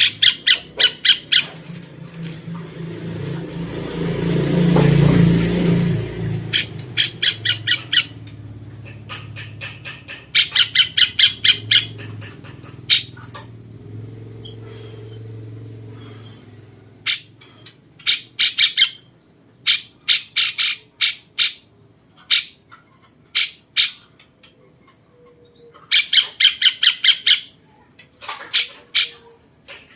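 Cucak cungkok bird singing in repeated bouts of rapid, harsh chattering notes, each bout a fast rattling series lasting a second or two. A low rumble swells and fades during the first several seconds.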